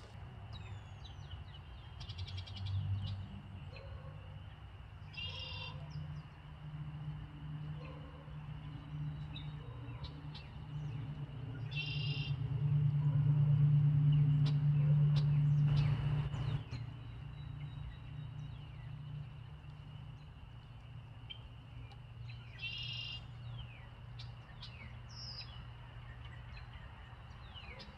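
A bird calling in short chirping bursts, about four times a few seconds apart, over a low steady rumble that swells for a few seconds midway.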